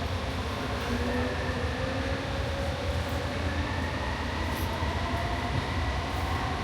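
JFK AirTrain car running: a steady low rumble inside the car with a faint, drawn-out whine above it.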